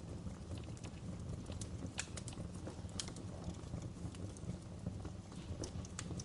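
Wood fire crackling in a fireplace: irregular sharp snaps and pops of burning logs over a steady low rumble of the flames.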